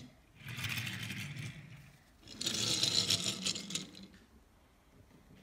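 Two bursts of scraping, rattling noise, each about a second and a half long, the second louder.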